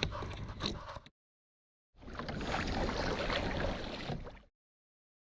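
Water and wind noise on a kayak, with a few knocks, cut off abruptly about a second in. After a gap of total silence it returns for about two and a half seconds and cuts off again.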